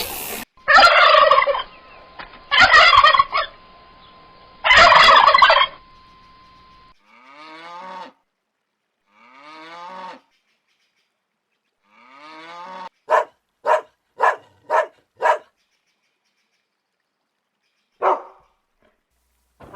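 Domestic fowl calling in a series of separate calls: three loud harsh calls in the first six seconds, then three quieter rasping calls, then five short sharp calls in quick succession and a single one near the end.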